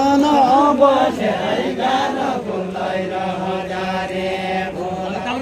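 Voices singing a Deuda folk song in a chant-like melody, with bending notes at first and then long held notes.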